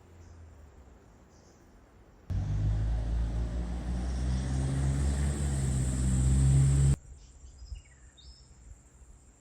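Car engine and road noise while driving, coming in suddenly about two seconds in and cutting off just as sharply about four and a half seconds later. Either side of it is quiet outdoor background with a few faint bird chirps.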